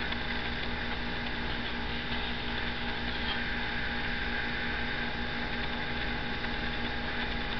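Steady background hum and hiss of a running machine, such as a fan or appliance, holding level and unchanging, with several constant tones in it.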